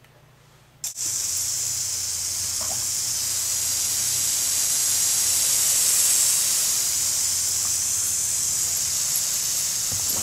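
Garden hose spraying water, a steady hiss that starts suddenly about a second in.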